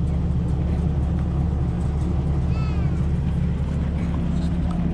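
Heavy truck engine idling with a steady low rumble, and a short high squeak that rises and falls about halfway through.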